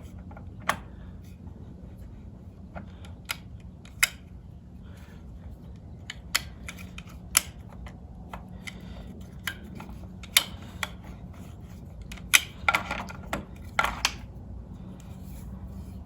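Scattered, irregular clicks and knocks of small hard parts being handled, with a cluster of scraping clatter near the end, over a steady low hum.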